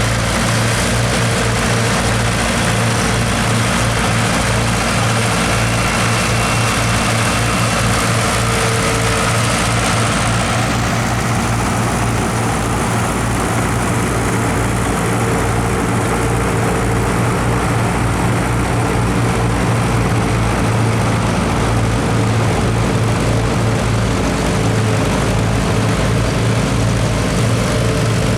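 Diesel tractor engine running steadily with a low, even throb; a high hiss over it eases about eleven seconds in.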